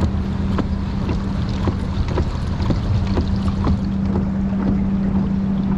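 A steady low hum over a low rumble, with light clicks and taps scattered irregularly throughout.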